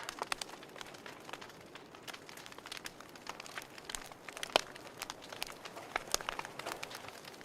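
Fireplace fire crackling: irregular sharp pops and snaps over a soft hiss, with one louder pop about halfway through.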